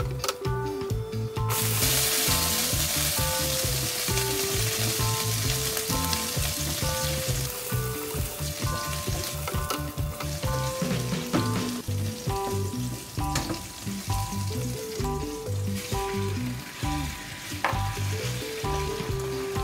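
Food hitting hot oil in a stainless steel wok: a loud sizzle starts suddenly about a second and a half in, then settles into steady frying as a spatula stirs, with a few sharp clicks of the spatula against the pan.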